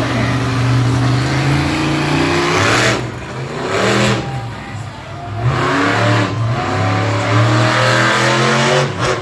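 Monster truck engine running hard under throttle, easing off twice in the middle before revving up again.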